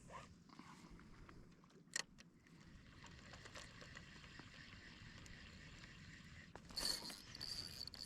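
Fishing reel buzzing loudly from about seven seconds in, a steady high whine: the drag giving line as a freshly hooked skipjack tuna runs. Before it, faint hiss and one sharp click about two seconds in.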